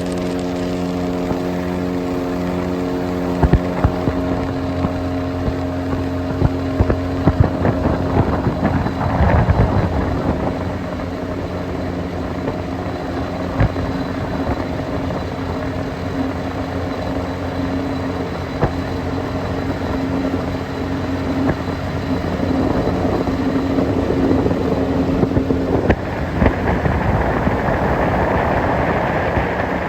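Boat motor running steadily under way, mixed with wind on the microphone and rushing water. The engine's hum is clearest in the first several seconds, then wind and water noise take over, with scattered knocks.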